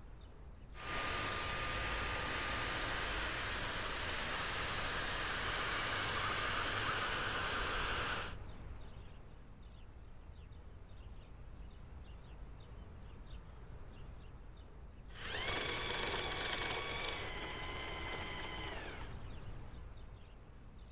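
Dyson 360 Heurist robot vacuum motor running in two spells. The first is a steady whoosh of about seven seconds. The second is shorter, with a whine that rises as it spins up and falls as it winds down.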